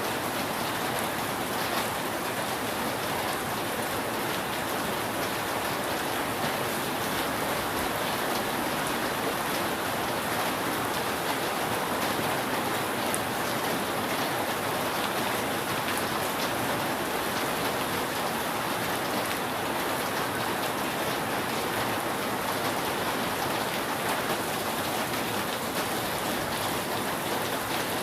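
Steady rain falling on a roof: an even hiss of many drops that holds at one level throughout.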